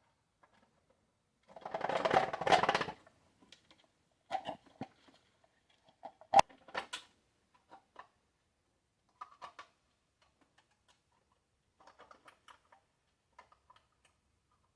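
Parts of a blender base being handled and fitted together by hand. A rustling scrape lasts about a second and a half, followed by scattered clicks and small knocks, with one sharp click about six seconds in.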